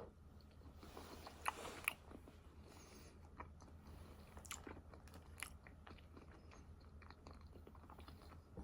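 A person chewing and biting food close to the microphone: faint mouth sounds with small crunches and clicks, the sharpest two between about one and two seconds in.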